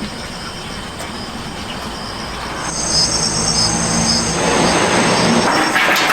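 Factory machinery running with steady noise; about three seconds in, a high-pitched metallic squeal and whine sets in and the sound grows louder.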